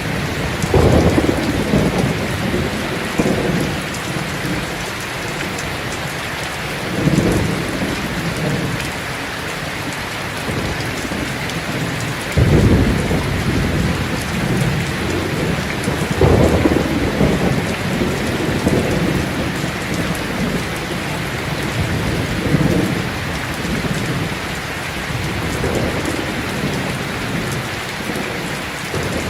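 Steady heavy rain hiss with rolls of thunder that swell up and fade again every few seconds.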